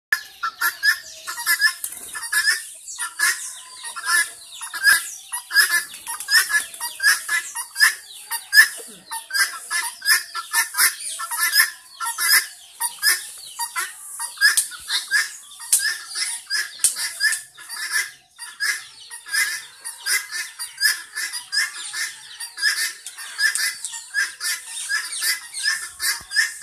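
Birds chirping and squawking without pause, many short high-pitched calls a second.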